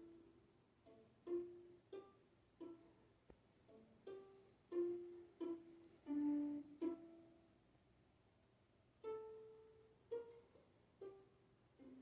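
Single plucked notes on a string instrument, played slowly and unevenly as if picked out one at a time, with a pause of about two seconds midway.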